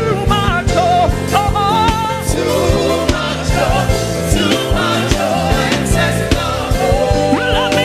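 Live gospel band playing with a steady drum beat, sustained keyboard chords and a sung vocal line over it.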